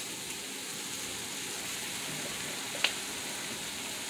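Sliced Brussels sprouts sizzling steadily in a hot cast iron pan, just after sweet rice vinegar has gone in. A single sharp click sounds almost three seconds in.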